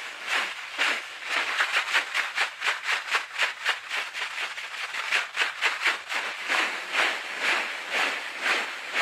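Rhythmic dry shaking rustle, a rattle-like swish repeated about two times a second, quickening to four or five a second in the middle and slowing again near the end.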